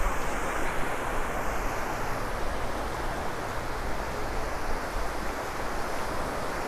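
Wind on the microphone mixed with steady surf on a beach: an even rushing noise with no distinct events.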